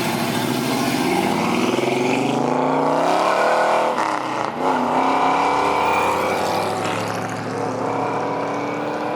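Car engine revving hard, climbing in pitch for about two seconds, dropping briefly about four and a half seconds in, then holding high revs and easing down slowly.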